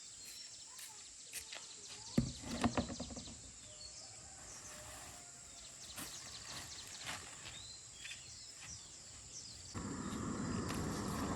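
Scattered light clicks and a short run of knocks about two seconds in, with a few faint bird chirps. Near the end a steady rushing noise starts suddenly and keeps growing louder.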